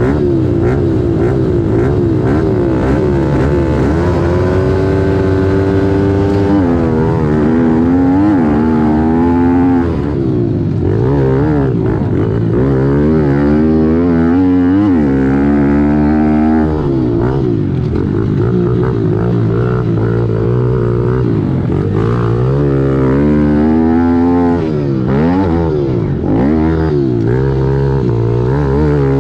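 Kawasaki KLX110L pit bike's small single-cylinder four-stroke engine, heard onboard, revving up and dropping back again and again as it is ridden hard around a motocross track.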